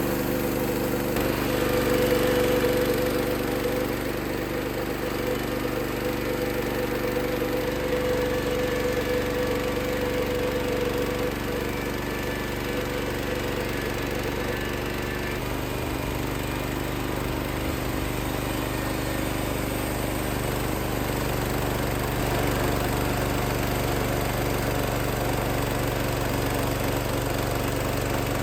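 Sawmill engine running steadily, its note shifting a few times: about a second in, around eight seconds in and just past halfway.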